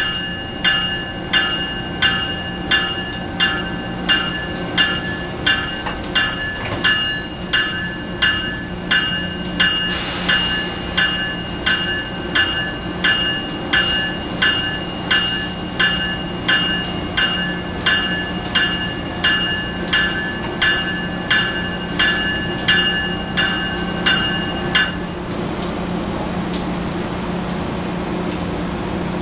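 Locomotive warning bell ringing steadily, about one and a third strikes a second, then stopping about 25 seconds in. A steady low hum carries on beneath it.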